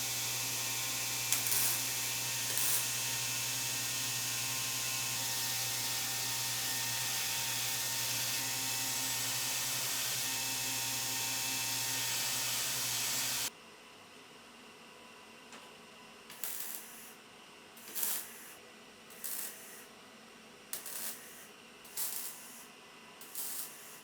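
A steady hiss with a low hum, marked by two clicks near the start, that cuts off abruptly about halfway through. It gives way to a series of short rubbing or scraping strokes, irregular and about one a second, typical of hand work on a part during a restoration.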